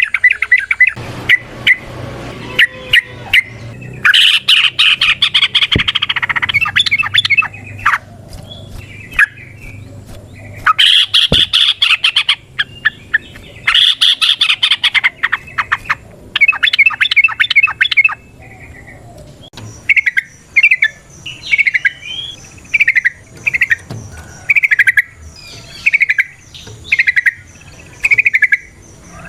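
Yellow-vented bulbul (trucukan) calling: bursts of rapid chattering in the first part, then, from about twenty seconds in, a steady series of short slurred notes at a little over one a second.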